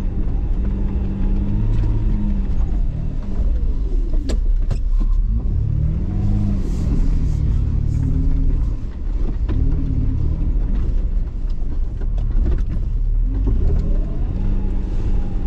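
Jeep engine revving up and down as it drives through snow, with a few sharp knocks about four to five seconds in.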